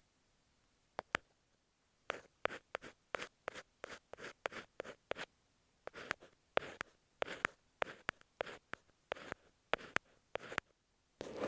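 Ear pick scratching and tapping on masking tape over an earphone microphone, close up. A couple of sharp clicks come first, then from about two seconds in a run of short scratching strokes, two or three a second, and near the end one longer scrape.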